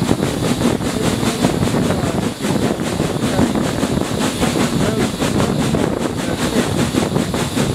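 Preserved-railway passenger train running along the line, heard at a carriage window: a steady rumble of wheels on track with carriage noise. Wind buffets the microphone.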